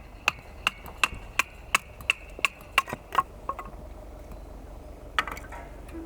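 Rapid, evenly spaced knocks, about three a second for roughly three seconds, with a few scattered knocks near the end.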